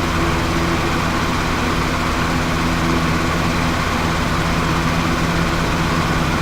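Steady machine hum: a constant low drone of several fixed tones over an even hiss, unchanging throughout.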